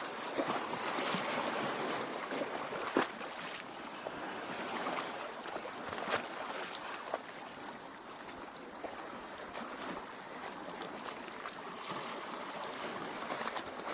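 Lake water lapping against the shore and rocks, a continuous wash with small irregular splashes and gurgles.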